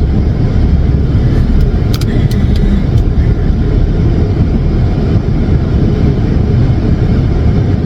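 Steady low rumble of a car's engine and tyres, heard from inside the cabin while driving. A few sharp clicks come about two to three seconds in.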